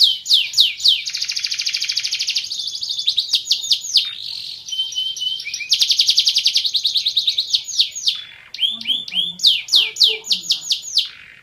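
Domestic canary singing loudly: repeated sweeping whistled notes that alternate with long, fast rolling trills.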